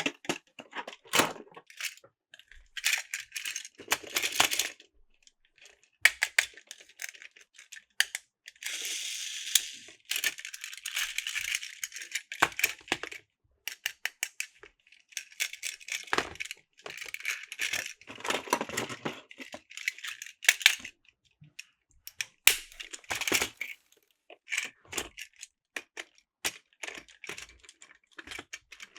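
Plastic toy parts and packaging being handled: irregular clicks and rattles mixed with short bursts of crinkling and rustling, with brief pauses between.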